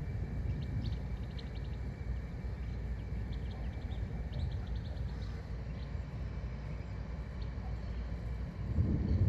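Wind rumbling on the microphone, with short, repeated bird chirps over it. Near the end a louder low rumble swells up.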